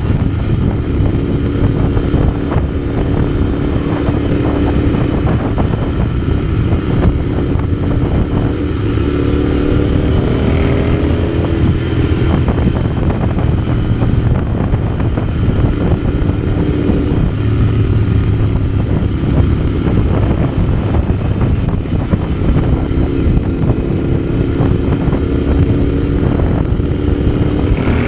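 Parallel-twin motorcycle engine running under way with steady wind and road rumble, its note rising twice as it accelerates.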